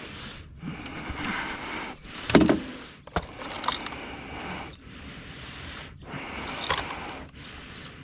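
Handling noises in a jon boat as a netted musky is dealt with: scraping and rustling over a steady hiss, with a loud knock about two and a half seconds in.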